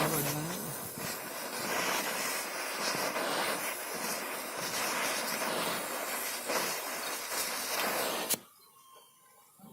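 A loud hissing rush that rises and falls. It cuts off abruptly a little over eight seconds in, leaving near silence.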